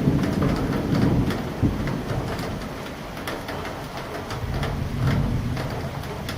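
Steady rain during a thunderstorm, with individual drops hitting close by, and thunder rumbling low in the first second or so and again about five seconds in.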